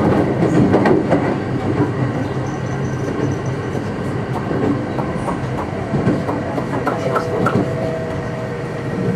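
Kintetsu electric train running, heard from inside the passenger car: a steady rumble of wheels on rail with scattered clicks over rail joints. A steady whine comes in during the second half.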